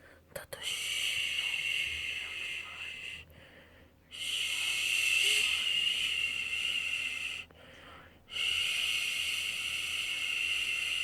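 Newborn white-noise shushing: long steady 'shhh' hisses of about three seconds each, three in a row with short pauses between.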